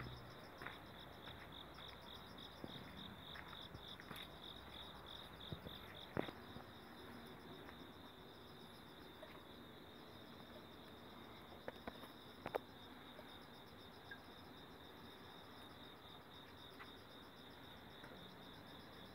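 Faint, steady chirping of insects, a continuous pulsing trill, with a few light clicks about six and twelve seconds in.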